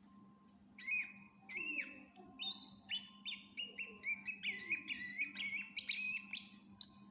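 Cucak ijo (greater green leafbird) singing a rapid run of short whistled notes. The song starts about a second in and climbs higher and louder toward the end. A faint steady hum lies underneath.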